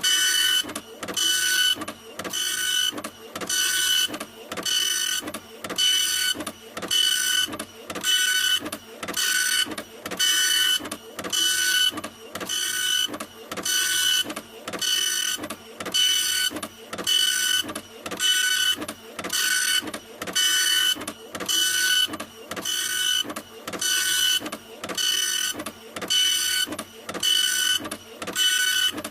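A printer running continuously. Its mechanism whirs in an even repeating cycle a little faster than once a second, each pass carrying a high whine with a short pause between passes.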